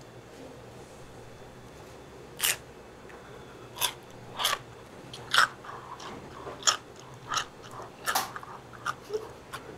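Crunchy food being bitten and chewed close to the microphone as eating ASMR. About a dozen sharp, irregular crunches begin about two and a half seconds in.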